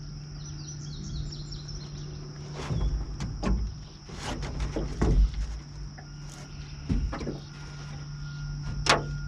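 Steady high-pitched insect drone with a few bird chirps early on, over a low steady hum, broken by about six knocks and thumps, the sharpest near the end.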